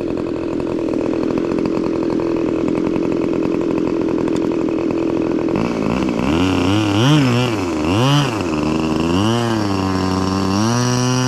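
A model airplane's Magnum XLS 61 two-stroke glow engine running steadily. From about six seconds in its pitch rises and falls several times as the throttle is opened and closed.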